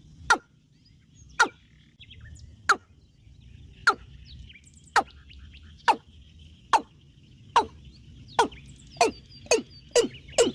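A bird's short, sharp, downward-sweeping chirp calls, repeated about once a second at first and speeding up to about twice a second near the end, over a faint high chorus of insects or birds.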